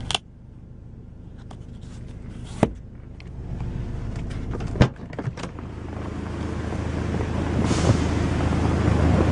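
A motor vehicle's engine hums steadily and grows louder over the last several seconds. Sharp clicks or knocks sound near the start, at about two and a half seconds and at about five seconds.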